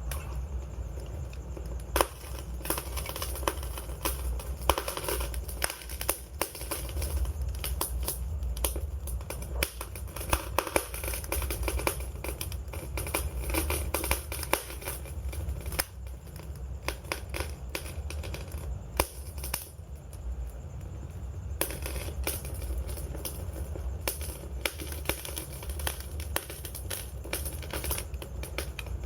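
Wood fire burning: steady crackling over a low rumble of flame, with a few sharper, louder pops now and then.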